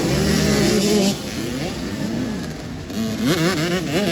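Dirt bike engines revving, held at a steady pitch for about the first second, then rising and falling in pitch as the throttle is opened and closed.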